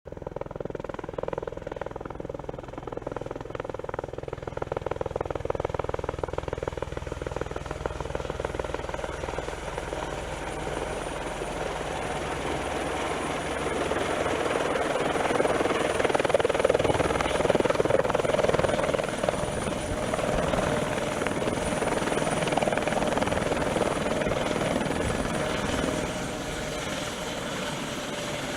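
2000 Eurocopter helicopter running, a thin steady high turbine whine over the rapid beat of the rotor. It grows louder around the middle and eases off a little near the end.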